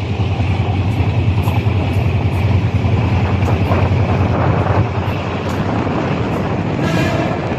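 Train running with a loud, steady low rumble and wind noise, with a short pitched sound near the end.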